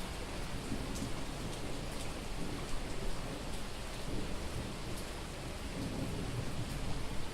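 Heavy rain pouring steadily on a street, with scattered drips ticking and a low rumble of thunder running underneath.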